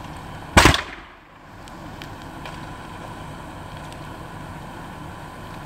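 A single sharp bang about half a second in as something on the burning pickup truck explodes, the kind of minor explosion the owner puts down to the truck's new tires bursting in the fire. A steady rushing noise follows.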